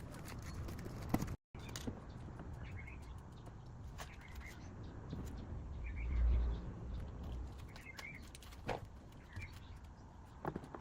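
Small birds chirping now and then over a low outdoor rumble that swells briefly about six seconds in, with a few sharp knocks.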